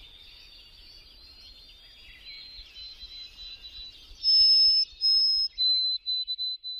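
Songbird singing: a fast, soft twittering warble, then about four seconds in two loud, long, pure whistles, followed by a quick string of shorter whistled notes.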